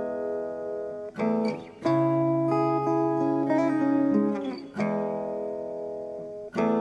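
Background music: an acoustic guitar strummed in slow, ringing chords, a new strum every second or two.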